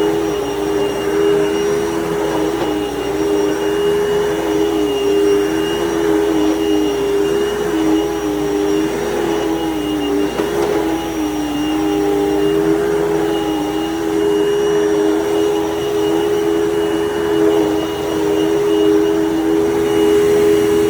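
Dirt Devil Total Vision UD70220 upright vacuum cleaner running continuously while vacuuming carpet: a steady motor whine with a second, slightly lower tone that wavers up and down as the load changes.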